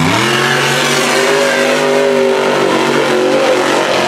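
A mud-racing mega truck's big engine revving: the revs climb right at the start, then hold high and steady.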